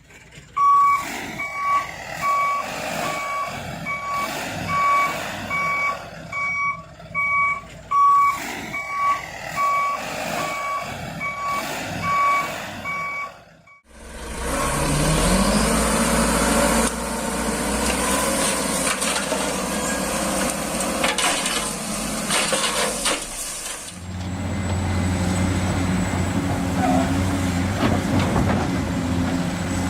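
Reversing beeper of a toy remote-control truck, a steady pitched beep repeating about twice a second. About fourteen seconds in it cuts off sharply and gives way to the steady whirring of small motors, with a short rising whine at the start.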